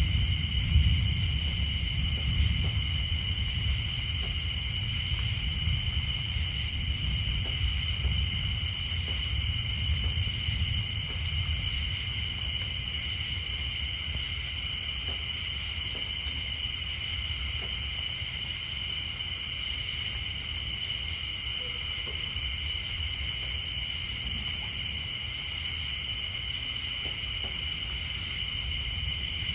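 A night chorus of insects and tree frogs: steady high trilling, with a higher call that switches on and off about every two seconds. Underneath is a low rumble of distant thunder, strongest near the start and easing off.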